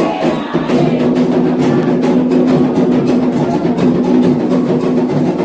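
Candomblé atabaque drums playing a toque for Ogum: a dense, fast run of hand drum strokes.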